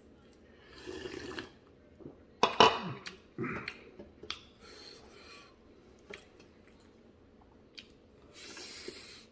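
Close-up eating sounds from buffalo leg soup with rice: several hissy slurps and sips, a few sharp clicks, and a loud throaty sound about two and a half seconds in.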